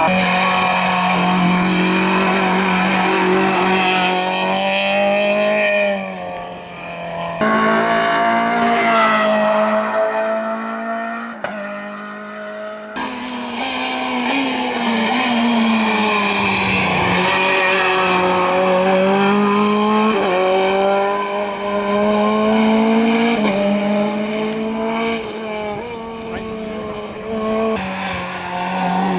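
Rally car engines at full throttle, revving up and dropping back with each gear change, heard in several passes joined by sudden cuts.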